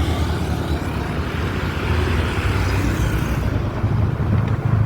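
A motor vehicle running steadily: a low engine hum with road noise, the noise swelling and easing again about two to three seconds in.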